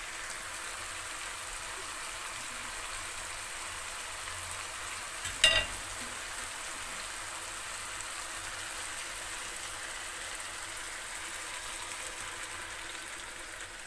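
Onion, bell pepper and tomato frying in hot olive oil in a pan: a steady sizzle, with one short ringing knock about five and a half seconds in.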